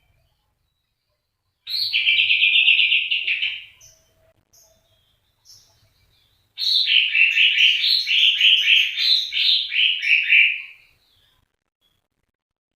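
A songbird singing two bouts of rapid trilled song: a short one about two seconds in and a longer run of quick notes from about six and a half seconds, with a few single notes between.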